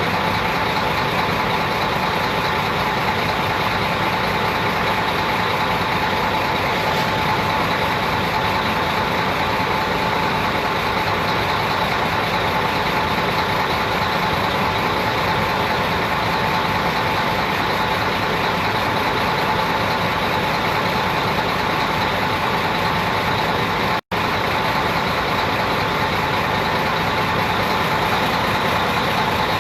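A motor vehicle's engine running steadily, with a constant hum over an even rushing noise. The sound cuts out for an instant about 24 seconds in.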